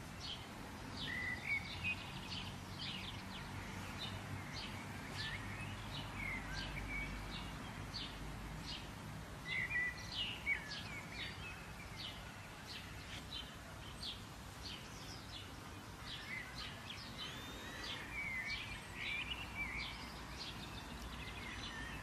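Several birds chirping and calling, a dense run of short chirps and whistled notes, over a low steady background hum.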